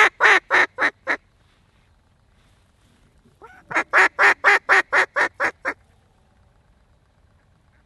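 Mallard duck call blown as a descending hen-style quacking series, about four quacks a second. It is loud and close. One series tails off about a second in, and a second series of about nine quacks begins a little past three seconds and fades out near six seconds.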